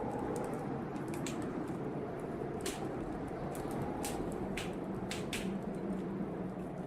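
Wood fire in a fireplace crackling, with sharp pops at irregular moments about once a second, over a steady low rush of blizzard wind.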